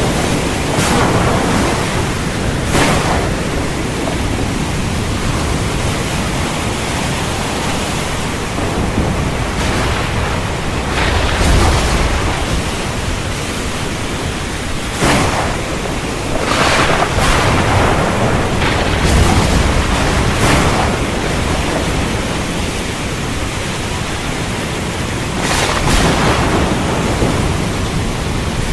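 Heavy rain falling steadily as a dense hiss, broken by several brief louder crackles and a couple of low rumbles of thunder.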